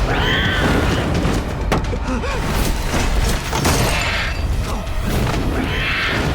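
Film action soundtrack: loud dramatic music over a deep rumble, with booming impacts and shrill cries near the start and again near the end.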